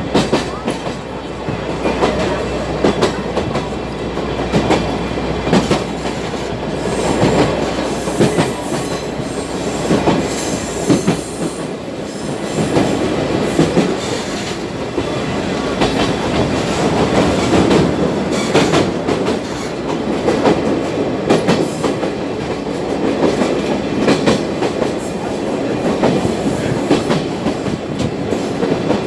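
Sagano trolley train carriage rolling along the track: a steady rumble with the wheels clacking over the rail joints. A low hum under it drops away about twelve seconds in.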